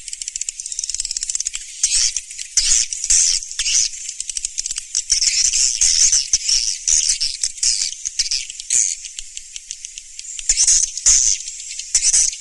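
Swiftlet calls: a dense, continuous chatter of rapid high-pitched clicks and chirps, swelling louder every second or so. It is the kind of swiftlet call recording played to lure the birds into a nest house.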